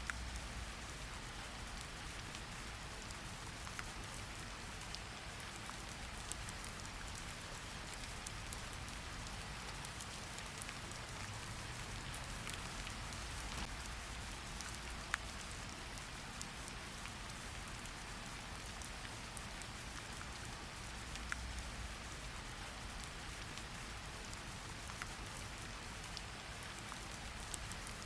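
Steady rain falling, with many separate drops ticking and pattering on a surface over a continuous hiss and a low rumble.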